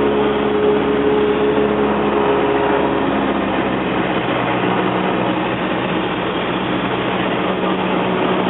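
Cessna 172S's four-cylinder Lycoming engine and propeller droning steadily over a rushing airflow noise on final approach. About three seconds in, the engine note drops to a lower pitch as power is brought back for the landing.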